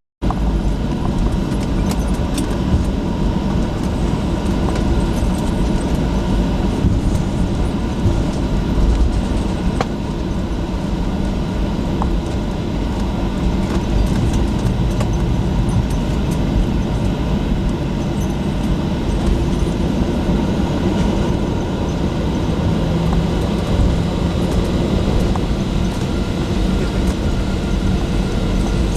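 Steady jet airliner cabin noise: engine and airframe rumble, heavy in the low end with a faint steady hum above it.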